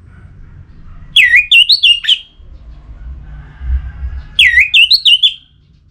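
A songbird whistling the same short phrase twice, each a quick run of about four loud, clear notes dipping and rising, the second about three seconds after the first. A faint low rumble sits between the two phrases.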